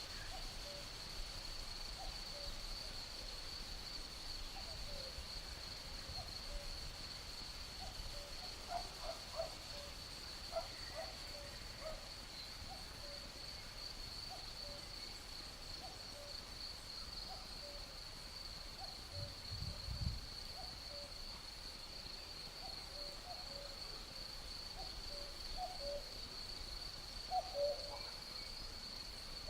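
Night nature ambience: a steady high-pitched insect trill, with many short low animal calls scattered through it, coming in clusters. There is a soft low thump about two-thirds of the way in.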